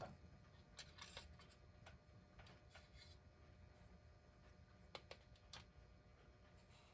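Near silence with a few faint, short clicks and light rubbing as the clock's hands are turned and fitted on their shaft.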